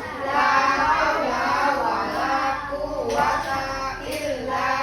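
A group of young children singing together in unison, with an adult voice among them.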